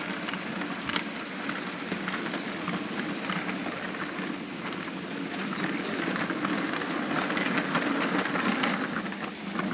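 Model train running on an O gauge layout: a steady rumble of wheels on track with many light clicks.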